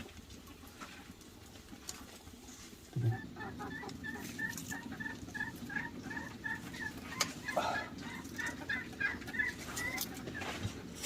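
Chickens clucking in a long run of short repeated notes, about three or four a second, starting after a low thump about three seconds in.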